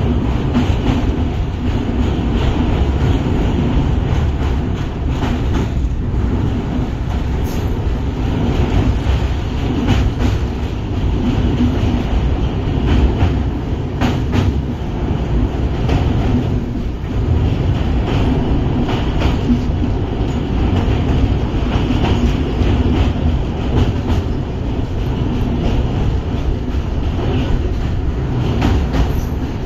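LHB passenger coaches rolling over a steel truss railway bridge, heard from aboard the train: a loud, steady rumble of wheels on rails with a few scattered metallic clicks.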